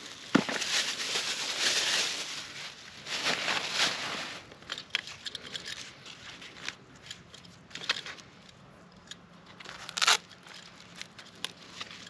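Rustling and crinkling, like packaging being handled and torn, for the first four seconds or so, then sparse light clicks and taps, with a sharper click near the end.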